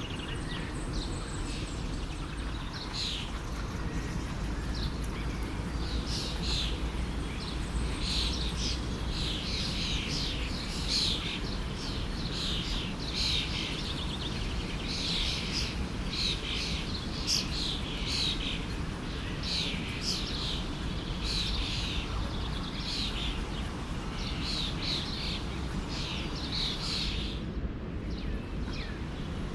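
Small birds chirping over and over above the steady rush of a flowing stream.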